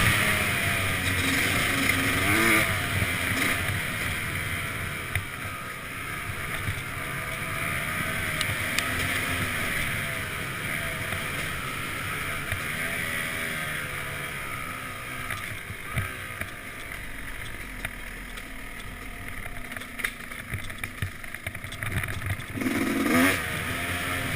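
Yamaha YZ250X 250cc two-stroke dirt bike engine running mostly at low throttle, with short blips of revving about two seconds in and again near the end.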